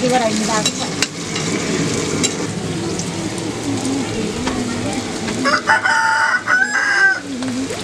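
Sukuti (dried buffalo meat) and onions sizzling in oil in a black iron wok over a wood fire, stirred with a metal spoon, with a few clicks of spoon on pan. About five and a half seconds in, a rooster crows once, for about a second and a half.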